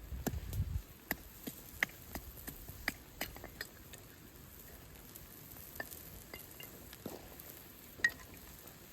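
Wood fire with meat grilling over it: sharp crackles and pops over a faint hiss, thick for the first few seconds and then sparse, with a low thud right at the start.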